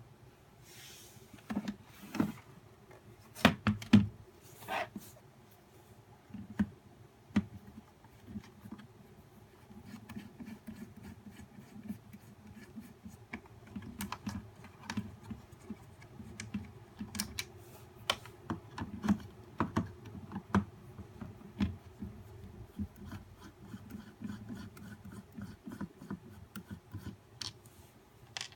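Hands handling the plastic parts of a nail dust collector: irregular clicks, taps and small knocks, with a few louder knocks about three to four seconds in.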